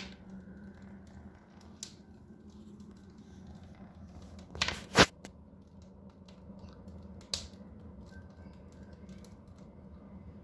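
Wood fire crackling in a fireplace: burning logs give scattered sharp pops and snaps, the loudest about halfway through, over a faint steady low hum.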